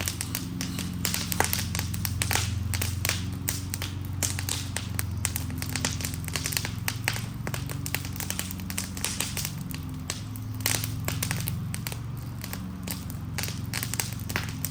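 Burning wooden Adirondack chair crackling, with many sharp irregular snaps and pops over a steady low rumble.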